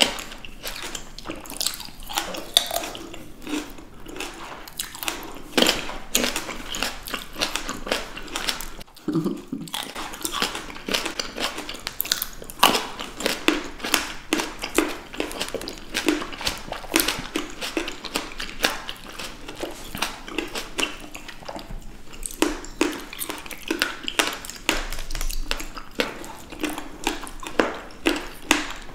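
Close-miked biting and chewing of juicy green grapes and other fresh fruit: a steady run of wet pops, crunches and small clicks, with a brief lull about nine seconds in.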